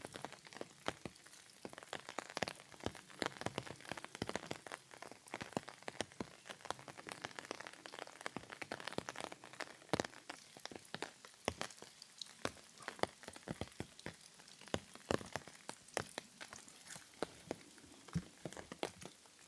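Rain falling, with many irregular drops tapping sharply on a surface over a soft steady hiss.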